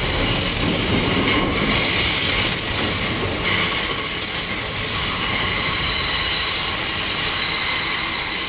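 Heathrow Express electric train coming in to the platform, its wheels squealing in several steady high-pitched tones over a low rumble.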